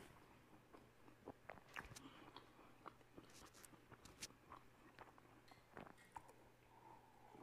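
Faint chewing of a soft white-bread egg sandwich, with scattered small mouth clicks.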